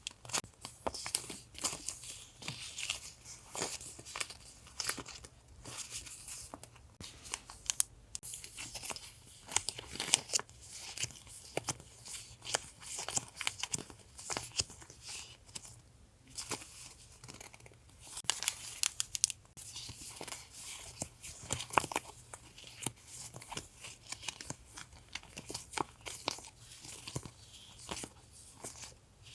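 Sticker and paper packaging being handled and torn open: irregular crinkling and tearing with many sharp crackles.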